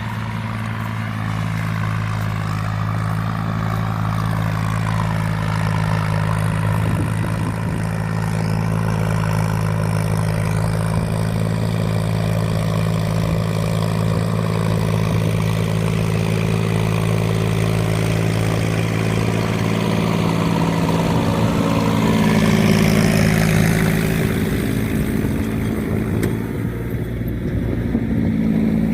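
Tractor engine running steadily while pulling a plough, a low, even hum that grows a little louder and shifts in pitch a bit over halfway through.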